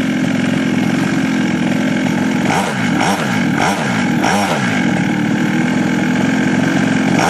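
Two-stroke 49cc minibike engine with a Polini GP3 big-bore cylinder, running steadily, then its pitch swinging down and up several times from about two and a half seconds in as the throttle is worked.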